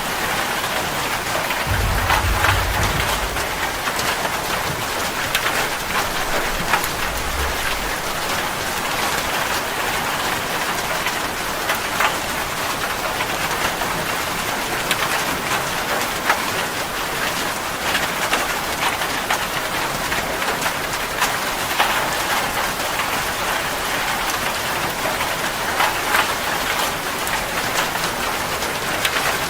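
Steady rain falling, with many individual drops ticking on a hard surface. A brief low rumble comes about two seconds in, with a fainter one a few seconds later.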